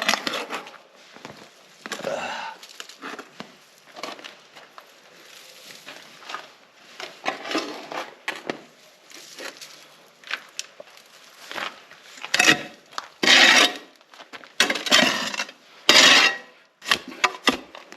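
Shovel scraping and scooping dirt and debris in a series of irregular rough scrapes, the loudest several strokes coming close together in the last few seconds.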